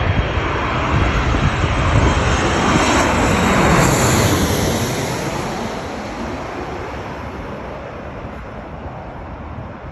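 Boeing 737 MAX 9 jet airliner passing by, its CFM LEAP-1B turbofan engines rushing louder to a peak about four seconds in and then fading, with a high whine that drops in pitch as it goes past.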